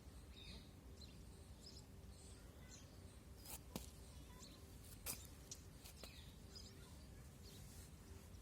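Faint ambient rumble with scattered short bird chirps, and a couple of faint clicks about halfway through.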